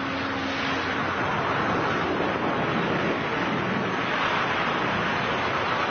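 Steady rushing wind noise over the microphone of skydivers in freefall, with no other clear sound.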